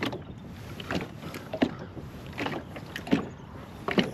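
Kayak paddle strokes dipping into the water in a steady rhythm, about six splashes evenly spaced a little under a second apart.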